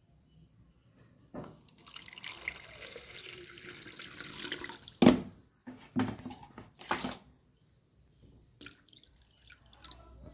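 A pour into a plastic bottle lasting about three seconds, then three sharp knocks about a second apart and a few lighter clicks.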